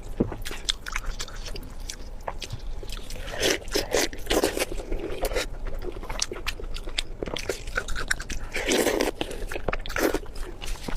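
Close-miked eating: a person chewing and biting food, with many sharp wet clicks and crunches and two denser bursts of chewing partway through and near the end.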